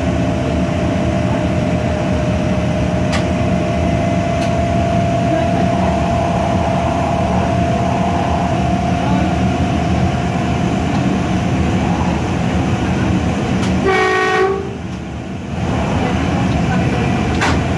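Electric train running at speed: a steady rumble of wheels on rail, with a faint whine that rises slightly in pitch and a few clicks. About fourteen seconds in comes a short horn blast, then the running noise drops for about a second.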